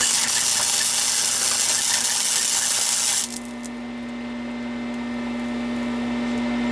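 MIG welder on its high setting, the arc crackling and hissing steadily as a bead is built up on the steel plate, then stopping suddenly about three seconds in. A steady low hum carries on through the pause that follows.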